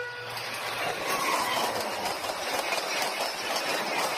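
Passenger train passing at speed close by: a steady rushing noise with faint rapid clicks of the wheels on the rails. A horn tone cuts off just after the start.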